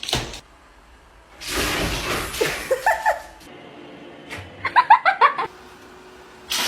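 A person laughing in a quick run of short bursts about two thirds of the way in, after a noisy rush with a few short rising voiced sounds.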